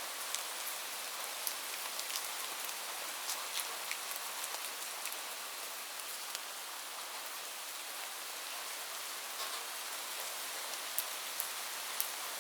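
Steady rain: an even hiss of falling rain with sharp individual drop ticks scattered through it.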